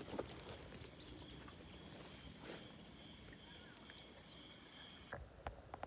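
Insects giving a steady high-pitched drone with a fainter pulsing chirp beneath it, which cuts off about five seconds in; a few soft clicks and rustles over a low outdoor background.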